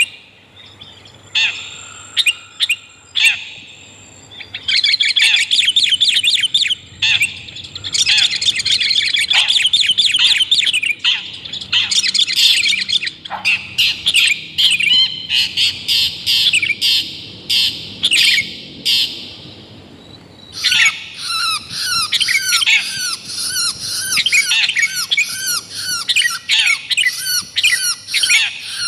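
Long-tailed shrike and sooty-headed bulbul calling: a few scattered sharp notes, then a long run of dense, rapid, harsh chattering, a short pause about two-thirds in, and a fast series of repeated curved whistled notes near the end.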